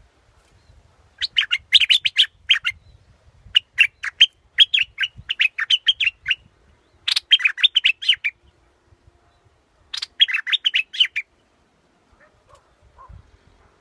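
Yellow bulbul (nok prot dok taeng) singing: four phrases of quick, bright chirped notes with short pauses between them.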